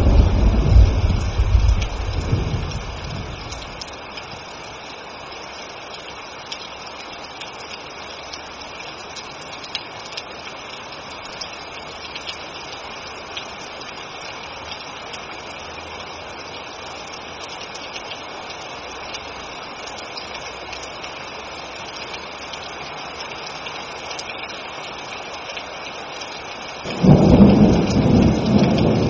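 Steady rain falling during a thunderstorm. A rumble of thunder dies away over the first few seconds, then a new loud peal of thunder breaks in sharply near the end.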